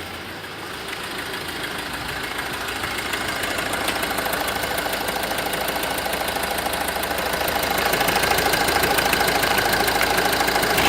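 Renault 1.9 dCi F9Q four-cylinder turbodiesel running with a steady diesel clatter, getting gradually louder, with a step up about eight seconds in.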